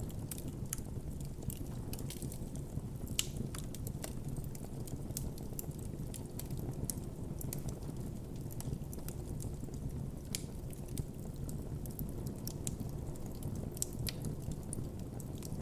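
Campfire burning with a steady low rumble and frequent irregular crackles and pops from the burning wood.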